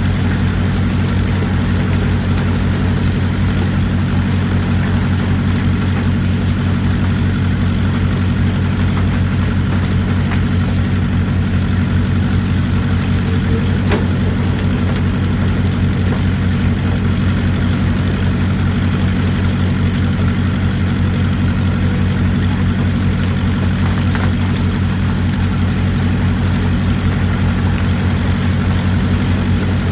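Excavator's diesel engine running steadily at a constant low drone, with an even hiss behind it and a couple of faint clicks about halfway through.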